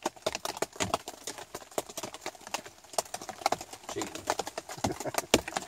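Scattered raindrops tapping on a tarp shelter overhead, a run of irregular light ticks.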